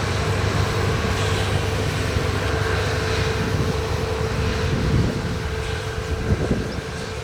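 A train passing close by on the track: a steady rumble with a held tone, loudest for the first five seconds and then fading away.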